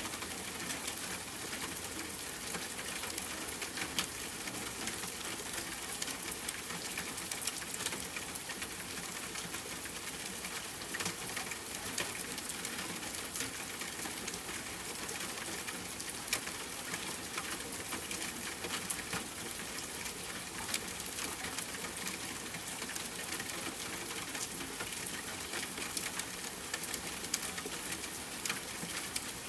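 Steady rainfall, an even hiss with many individual drops ticking sharply on a hard surface.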